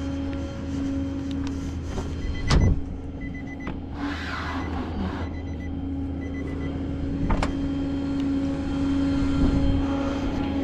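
A vehicle's engine runs with a steady drone, and two sharp knocks come about five seconds apart.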